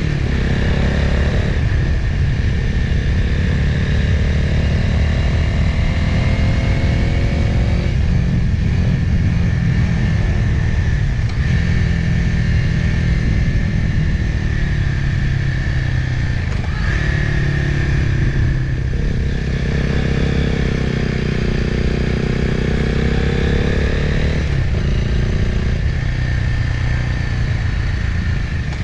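Motorcycle engine heard from an onboard camera on a winding downhill, its pitch rising and falling with the throttle and jumping several times, over a steady low rush of wind and road noise.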